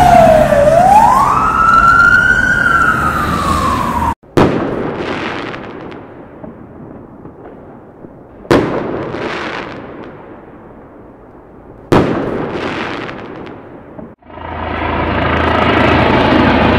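An emergency vehicle siren wailing, falling and rising in pitch, cuts off about four seconds in. Three heavy booms follow, roughly four seconds apart, each fading away in a long rumble. Near the end a steady engine drone starts.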